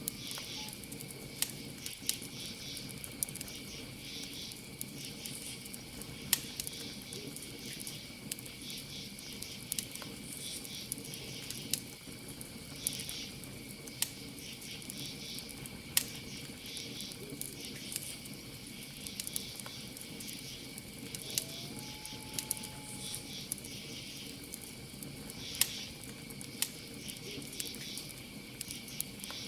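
Campfire crackling, with sharp pops every second or two, over a steady high cricket trill and repeated pulsed insect chirping.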